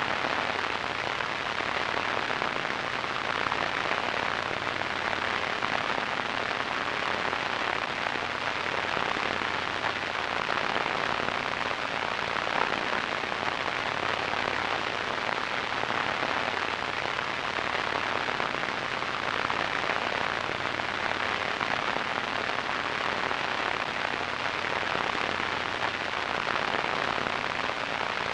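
Radio static: a steady, even hiss with a fine crackle, strongest in the upper middle range, with no change throughout.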